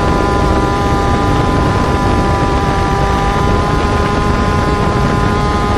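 Motorcycle engine running at a steady speed on the move, with wind rushing over the microphone. Its pitch creeps up slightly near the end.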